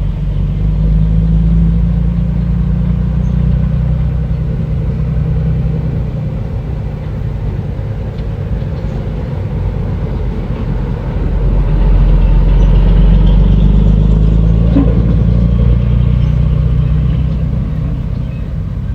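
Bulldozer's diesel engine running steadily with a low drone, growing louder about a second in and again past the middle, as if working under load.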